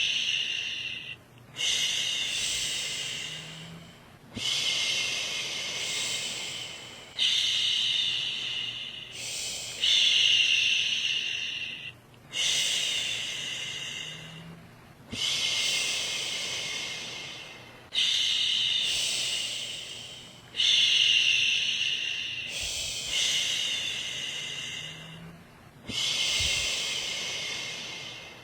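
A woman's voice shushing, a long "shhh" repeated about every two and a half seconds, each one starting strong and fading away. It is the rhythmic shushing used to settle a baby to sleep.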